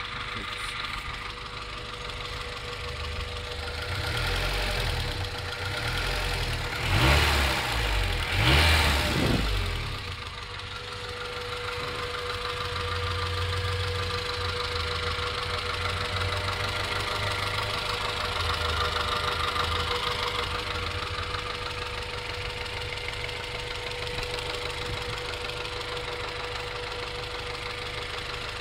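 1994 Acura Integra GSR's B-series four-cylinder engine idling with the noise the owner is worried about, which he can't place as rod knock, an exhaust leak or valve lash. It is revved up briefly three times between about four and ten seconds in, then settles back to idle.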